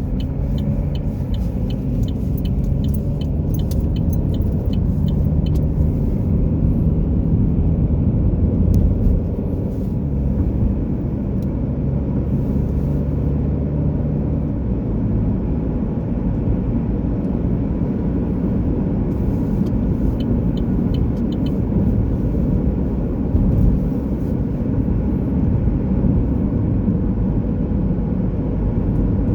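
A car driving along with steady road and engine rumble, its engine note holding steady for the first half. A run of rapid light ticks sounds over the first several seconds and again briefly past twenty seconds.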